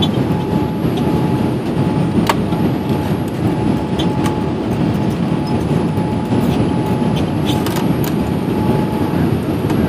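Cabin noise inside a Boeing 787-8 after landing: a steady rumble of the airliner rolling on the ground with its engines running, a faint steady tone, and scattered light clicks and rattles.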